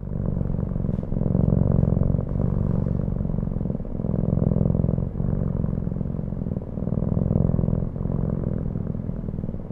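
Kitten purring: a continuous low, rapid buzz that swells and dips with each breath, about every second and a half, with a short break at each turn of breath.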